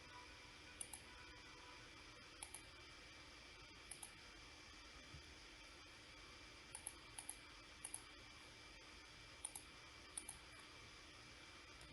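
Computer mouse clicking: short sharp clicks, single and in quick pairs, every second or two, over a faint steady hiss and hum.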